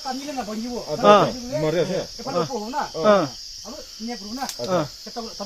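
People talking and calling to one another over a steady, high-pitched chorus of night insects.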